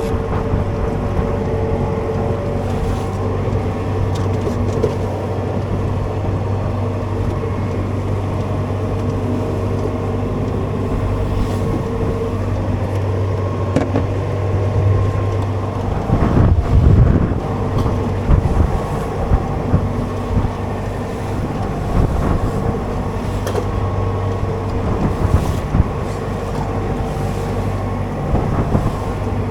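A small boat's engine running steadily, with wind noise on the microphone. A few low thumps come about halfway through.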